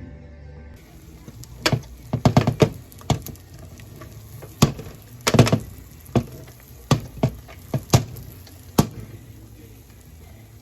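A series of sharp knocks or clicks at irregular intervals, about a dozen in all, over a faint steady hiss.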